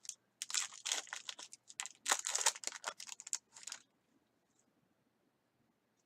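Plastic packaging crinkling and rustling as it is handled, in a run of short bursts that stops about four seconds in.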